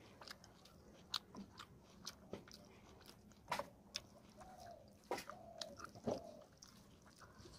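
Wet chewing and lip smacking of someone eating rice and fish curry by hand, with soft squelches of fingers mixing rice on a plate. Short irregular clicks and smacks follow one another.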